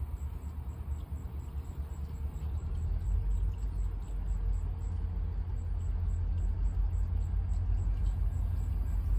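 A steady low vehicle rumble that grows louder about three seconds in.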